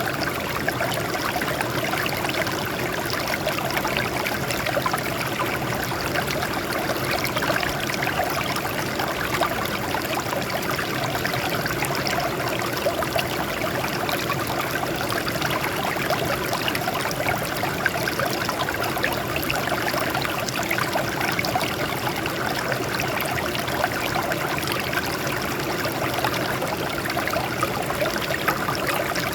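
Water flowing and splashing over rocks, a steady small stream or cascade with a continuous babbling trickle.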